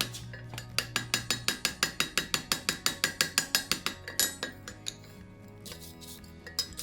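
Blacksmith's hammer striking iron on an anvil in a quick, even run of ringing blows, about five a second, for three or four seconds, then a few lighter taps.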